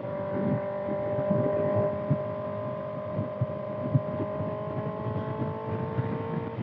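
2025 Kawasaki ZX-6R's 636 cc inline-four through a Voodoo slip-on exhaust, running steadily under way, its pitch creeping slowly upward.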